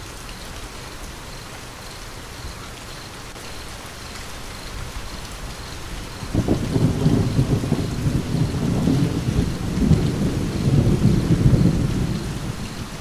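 Steady rain falling, with a roll of thunder that breaks in about halfway through, rumbles low for several seconds and fades near the end.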